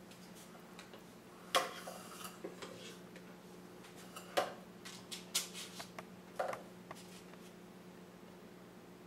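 Kitchen scoop clinking and knocking against dishes as chocolate cake batter is scooped into cupcake cups: a few scattered sharp clicks, the loudest about one and a half and four and a half seconds in, over a steady low hum.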